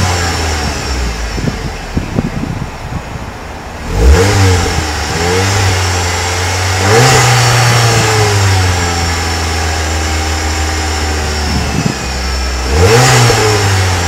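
2010 Ford Transit Connect's 2.0-litre DOHC four-cylinder engine idling and being revved in three quick blips, about 4 s in, around 7 s in and near the end, dropping back to idle after each. The engine runs smoothly at 167,000 miles.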